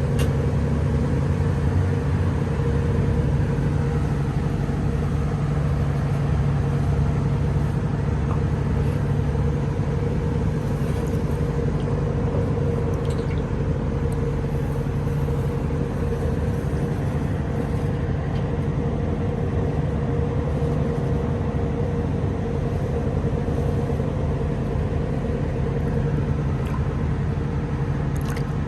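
An engine running steadily at constant speed: a low, even drone with a steady hum.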